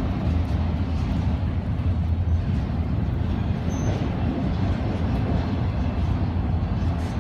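Intermodal freight train rolling past, a steady low rumble of wheels on rail.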